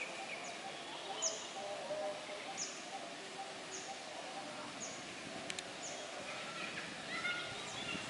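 A bird repeating a short, high chirp that drops in pitch, about once a second, over steady outdoor background noise. A single sharp click sounds about halfway through.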